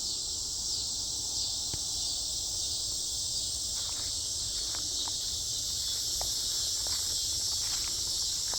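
Dense chorus of cicadas, a steady high-pitched buzz that holds an even level without pause, with a few faint ticks over it.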